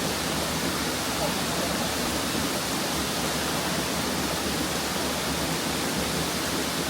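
Waterfall's falling water rushing steadily, an even unbroken hiss.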